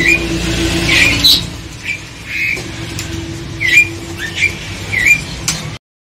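Caged songbirds giving short, hooked call notes, about seven spread over a few seconds, over a low steady hum. The sound cuts off abruptly near the end.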